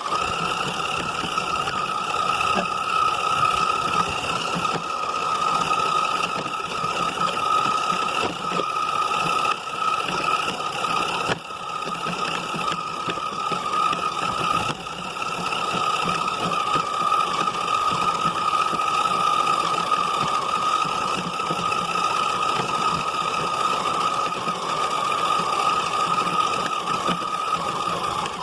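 Radio-controlled car's motor running with a steady, unchanging high whine over a rough rattle, briefly dipping about eleven seconds in.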